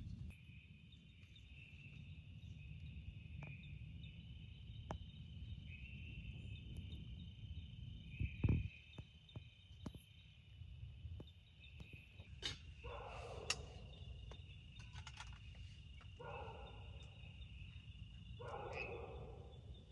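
Night forest ambience: insects chirring steadily, over a low rumble, with scattered light clicks. There is one louder thump about eight seconds in, and three short mid-pitched bursts near the end.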